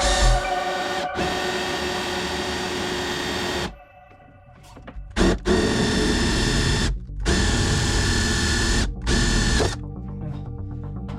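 Power drill with a 5/8-inch bit boring through a plastic ABS junction box. It runs in bursts: one long run, a pause about four seconds in, then three shorter runs, stopping near the end.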